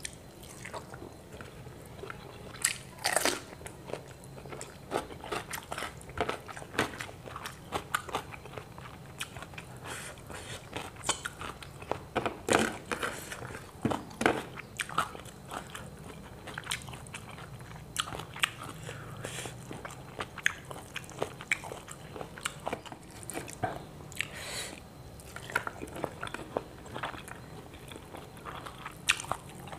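A man chewing and crunching a hand-eaten meal of fried tilapia, rice and raw cucumber close to a clip-on microphone: a steady run of irregular sharp crunches, with a few louder ones.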